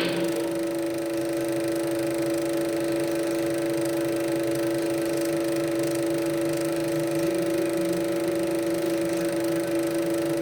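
Steady electrical and mechanical hum from a Super 8 sound projector running, with a few constant tones and faint high ticking over it.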